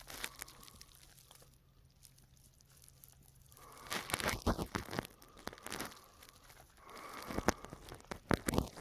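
Handling noise: a quiet stretch, then rustling and scattered sharp clicks from about four seconds in.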